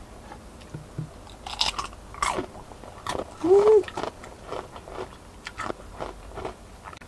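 Crunchy bites into the crisp breaded crust of a fried chicken piece, two bites about a second and a half in, then chewing with small wet clicks. A short hummed "mm" rises and falls a little past halfway.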